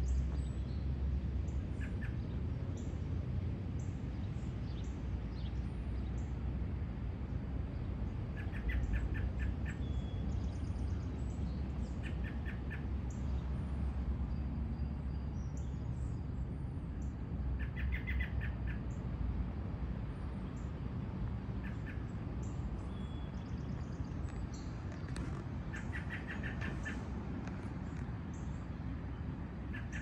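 Wild birds calling: short rapid chirping trills every few seconds, with thin high call notes repeating between them. A low steady rumble runs underneath.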